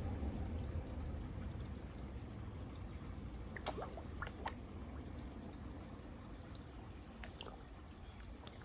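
Water steadily pouring and trickling into a koi pond, fading slightly, with a few brief sharp sounds about halfway through.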